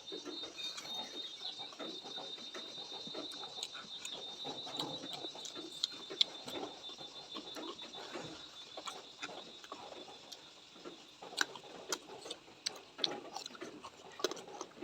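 Close-up eating sounds: irregular chewing and crunching with many small sharp clicks. A high, steady trill runs underneath through the first half, then fades.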